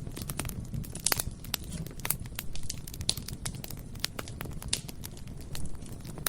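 Bonfire burning with a steady low roar under constant crackling and irregular sharp snaps and pops of burning wood, a louder snap about a second in.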